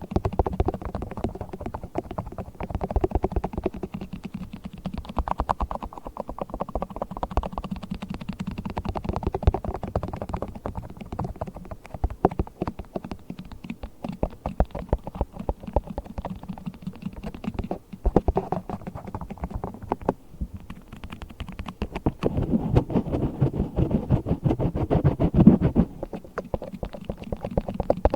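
Yellow rubber gloves rubbing and squeaking, a dense run of small rubbery creaks and crackles that grows fuller and louder about four-fifths of the way through.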